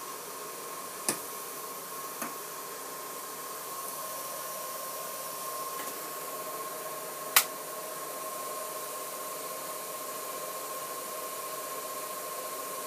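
ZVS driver running a microwave oven transformer at high voltage: a steady hiss with a high, even whine. Three sharp snaps cut through it, the loudest about seven seconds in.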